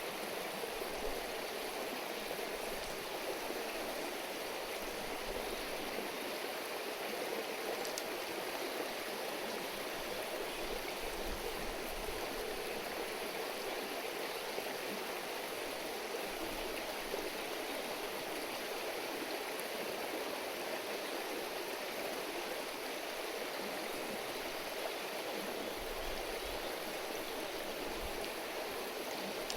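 Shallow river or stream babbling over stones, a steady, even rush of running water.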